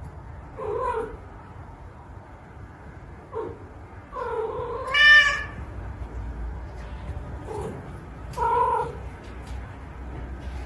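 A cat meowing five times, short calls around a long drawn-out one about four to five seconds in that rises in pitch and is the loudest.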